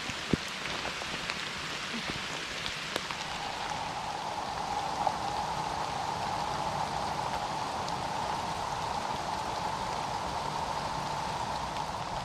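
Steady rain falling, with scattered sharp drop hits; about three seconds in, a steady, even high drone joins it.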